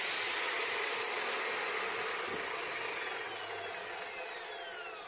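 Power cutting tool's motor and blade spinning down after being switched off, its whine sliding down in pitch and fading steadily.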